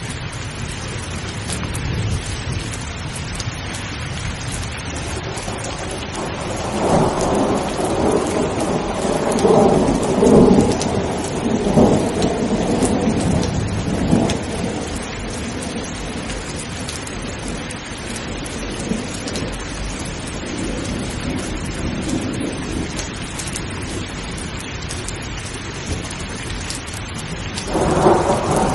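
Steady rain falling, with rolling thunder: a long rumble builds about a quarter of the way in and rolls on for several seconds, a fainter one follows later, and another begins near the end.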